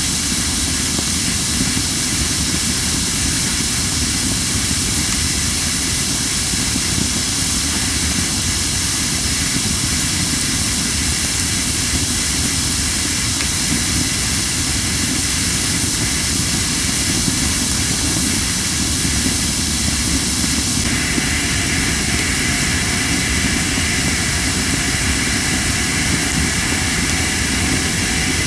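Crape myrtle wood burning in a campfire, hissing steadily as moisture steams out of the logs, with little crackling: the way wood that is not fully seasoned burns. The hiss grows brighter and higher about two-thirds of the way through.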